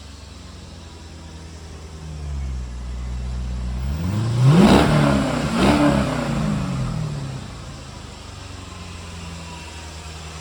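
C5 Corvette LS1 5.7-litre V8 idling, then revved twice in quick succession about halfway through, the revs rising and falling about a second apart before it settles back to idle. The engine is said to be in top shape with no knocks or ticks.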